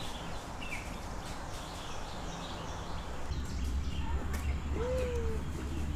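Small birds chirping now and then in short, high calls, with a single lower call about five seconds in. A low rumble comes up about three seconds in.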